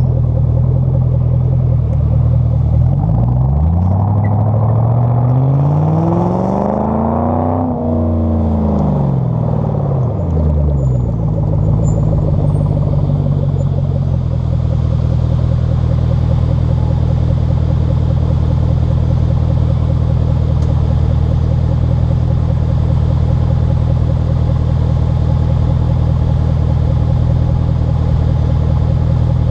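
Ford Mustang 4.6 V8 exhaust idling, revved once about three seconds in: the pitch climbs smoothly, peaks, and falls back to idle, which then runs steadily.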